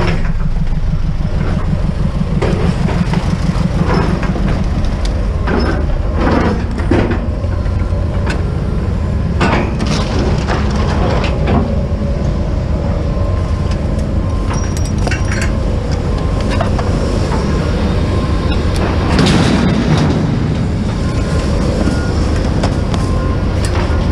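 A vehicle driving, with a steady low engine and road rumble and scattered knocks and rattles over it.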